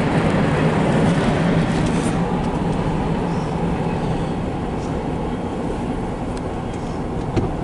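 CSX freight train rolling past: a steady rumble and rush of wheels on rail with a low diesel hum, easing off slightly, with a few faint clicks.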